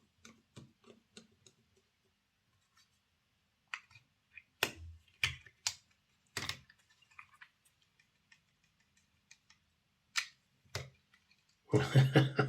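Small plastic and metal parts of a model locomotive clicking and tapping as they are handled and fitted together on a workbench, a scatter of light clicks with a few sharper knocks.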